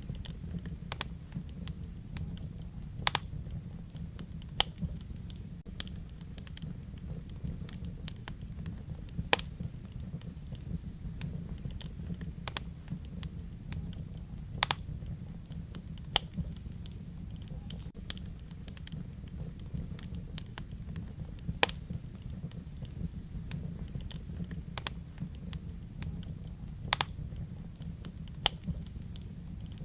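Wood fire in a fireplace crackling, with a steady low rumble of the flames and irregular sharp pops from the burning logs, several of them louder than the rest.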